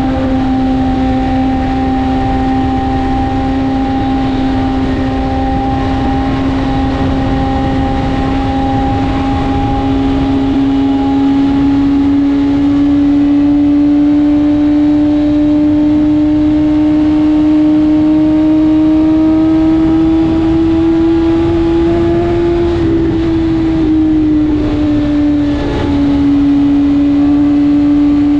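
BMW S1000RR inline-four engine running under way at steady road speed, its pitch climbing slowly as the bike gathers speed. The pitch eases down briefly about three-quarters of the way through, then holds steady.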